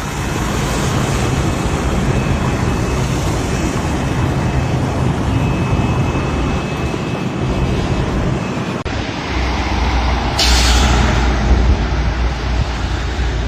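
Steady road noise and engine rumble of heavy vehicles in traffic, with a loud hiss lasting about a second starting about ten seconds in.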